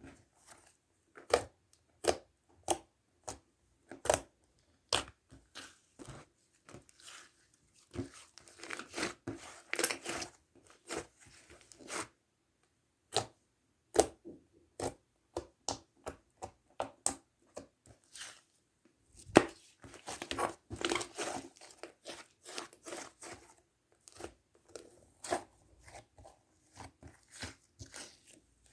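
Mint sherbet slime being squished, pressed and stretched by hand, giving irregular sharp pops and crisp crackles in short clusters.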